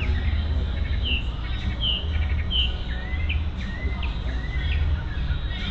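A songbird singing a series of short chirps: three alike notes about two-thirds of a second apart, then several upward-sweeping notes, over a steady low rumble.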